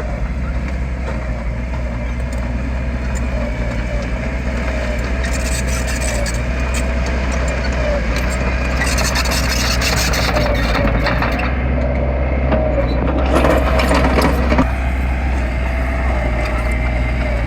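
Heavy diesel construction machinery running steadily: a deep engine drone with a wavering whine over it, and rattling and clanking in the middle stretch.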